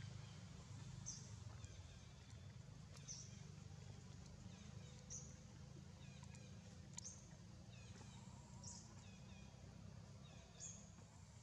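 Faint outdoor ambience: a bird gives short high chirps about every two seconds over a low steady rumble.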